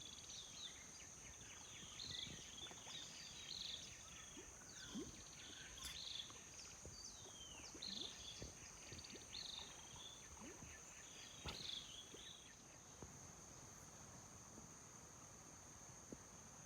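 Faint outdoor ambience: insects droning at one steady high pitch, with short bird chirps scattered over it.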